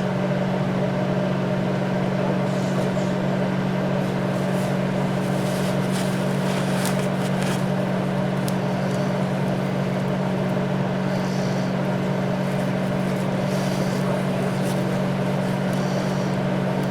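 Steady low electric hum from a running machine in the workshop, with faint intermittent scratches and clicks as old grease is wiped off a stand-mixer gear.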